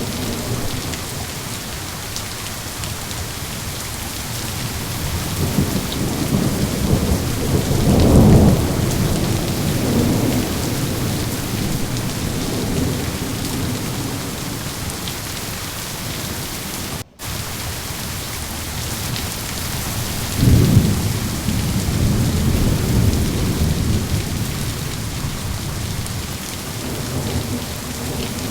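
Steady heavy rain falling, with two long low rolls of thunder, one building about a quarter of the way in and the other about three quarters in. The sound drops out for an instant near the middle.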